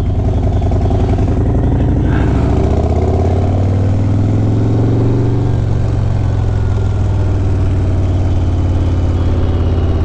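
Harley-Davidson Sport Glide V-twin engine idling, its speed rising and falling back once a couple of seconds in.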